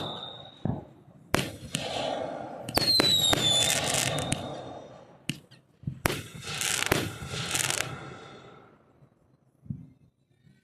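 Fireworks going off: a string of sharp bangs with a falling whistle about three seconds in, then a burst of crackling around seven seconds in that fades out.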